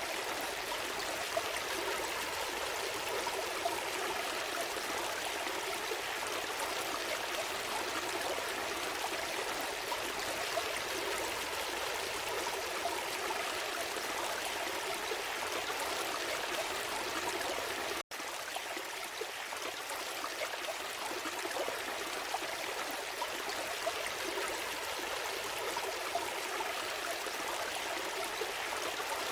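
Small stream flowing steadily, an even rush of water, with a momentary dropout about two-thirds of the way through.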